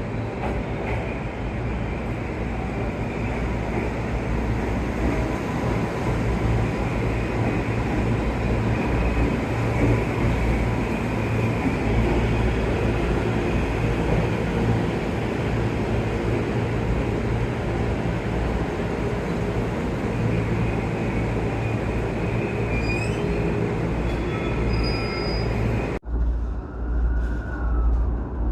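Electric commuter train noise, a steady rumble with a low hum, with a few brief high squeals a few seconds before the end. Near the end it cuts off abruptly to a different, lower rumble.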